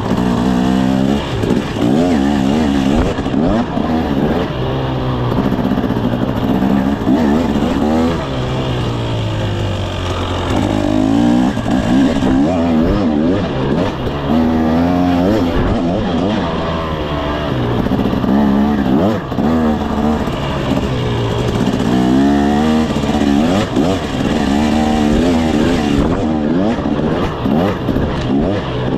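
2024 KTM 300 SX two-stroke dirt bike engine under a rider, revving up and dropping back again and again, its pitch rising and falling every couple of seconds as the throttle opens and closes.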